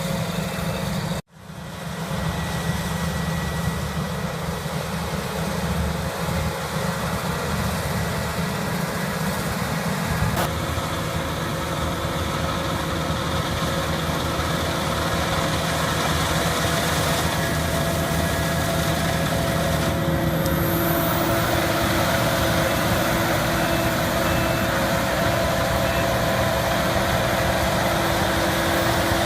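Farm machinery engines running steadily. The sound cuts out briefly about a second in, and its character changes again about ten and twenty seconds in, as one machine gives way to another.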